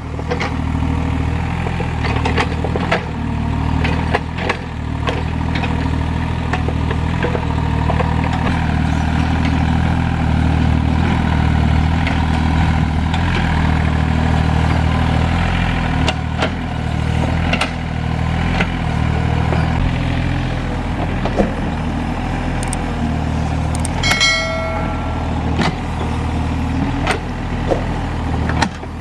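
Excavator's diesel engine running steadily while it works, with scattered clanks and knocks. About 24 seconds in, a brief high pitched tone sounds.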